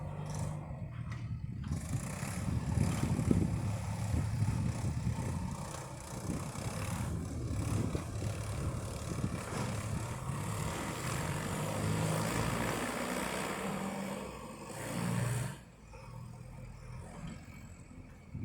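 Tractor engine running under load with a steady low hum, the noise of a working vehicle over it. The sound drops away sharply about fifteen seconds in, leaving a quieter engine hum.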